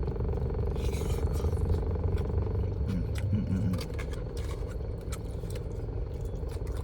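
Eating sounds over a steady low rumble: short clicks and scrapes, such as a utensil against a takeout container, and chewing.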